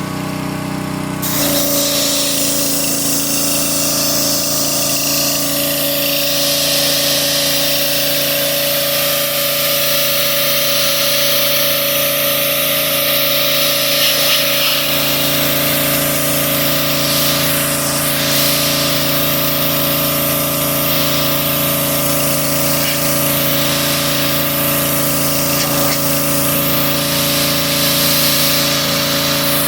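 Gas-engine pressure washer running steadily with its spray hissing, both stepping up about a second in.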